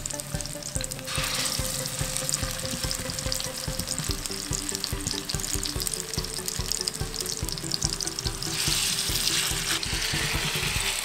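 Pike fish cutlets sizzling in hot oil in a cast-iron skillet. The sizzle swells about a second in and again near the end as more patties are laid in, over background music with held notes and a steady beat.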